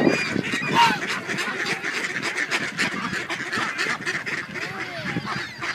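A crowd of ducks and geese calling over one another, many short quacks with a few longer honks, as they gather to be fed bread.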